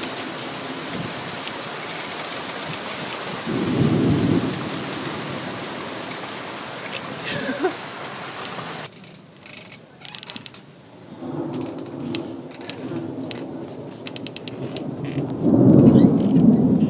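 Thunderstorm: steady heavy rain with a roll of thunder about four seconds in. About nine seconds in the rain hiss drops away suddenly, leaving scattered drips and low rumbling thunder that swells loudest near the end.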